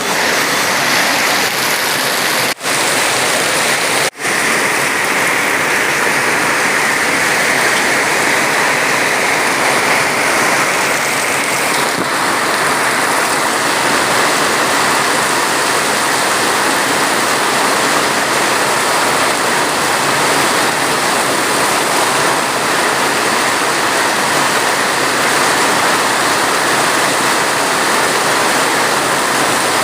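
Steady, heavy rainfall, an even wash of water noise, broken by two very brief dropouts about two and a half and four seconds in.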